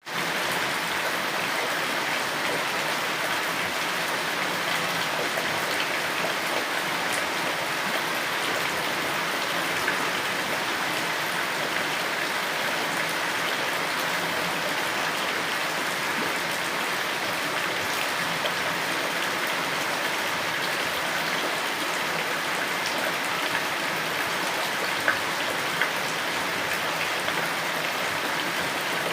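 Steady rain falling, an even hiss of many drops, with now and then a single louder drop.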